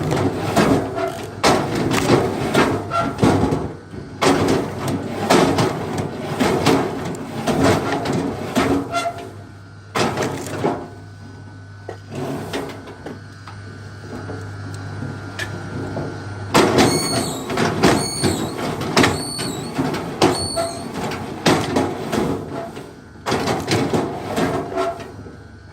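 A busy run of knocks and thuds, several a second, over a steady low hum that stops about two-thirds through. Around the same point come four short high squeaks, one after another.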